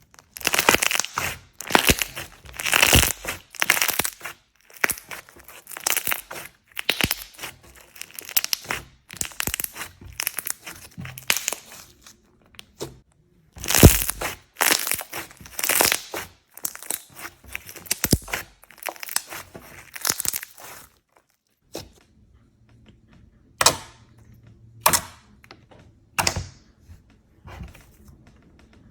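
Slime being squeezed, stretched and pressed by hand, giving off rapid irregular crackling, crinkling and squishing pops. After about twenty seconds the sound thins out to a few single sharp pops.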